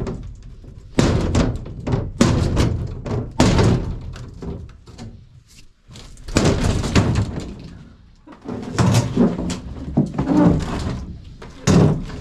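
Demolition work on an old house: repeated heavy thuds and knocks in irregular clusters as something is taken apart by hand.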